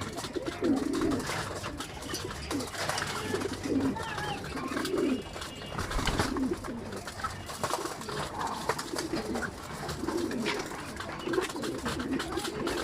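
Several domestic racing pigeons cooing over and over in low, rolling calls, with scattered light clicks among them.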